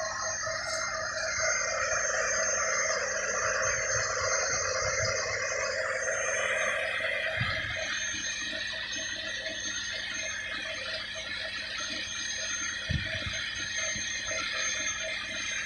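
Heavy trucks running with a steady rushing noise, over which a quiet electronic beep repeats several times a second; two dull thumps come about halfway through and near the end.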